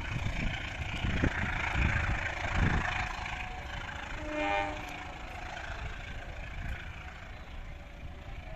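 A parcel train's baggage cars rolling away on the rails, the wheels knocking a few times over rail joints as the sound fades. About four and a half seconds in, a short horn toot sounds from the train.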